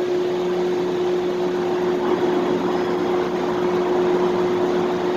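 Steady background hum of a supermarket parking lot: a mix of machinery and vehicle engine noise with a constant droning tone, and a lower hum joining just after it begins.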